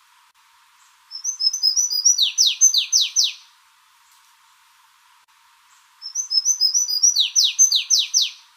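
A songbird singing two matching phrases, about a second in and again about six seconds in: each starts with a quick run of short, high notes and ends with four or five loud whistles that sweep downward.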